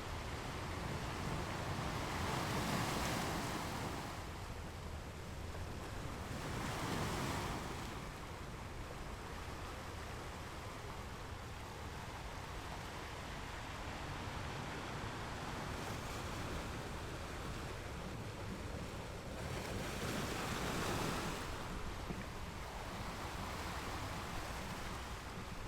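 Strong sea waves breaking on a beach: a steady wash of surf, with three louder waves swelling and falling away, near the start, about seven seconds in, and about twenty seconds in.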